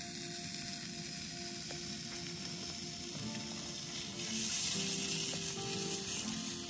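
Hot dogs sizzling in a small frying pan over a backpacking canister stove, a steady hiss that grows louder about four seconds in as they are moved in the pan.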